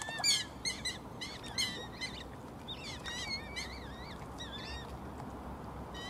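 Birds calling: many short, thin, high-pitched calls that waver up and down in pitch, a few each second, over a faint hiss of water.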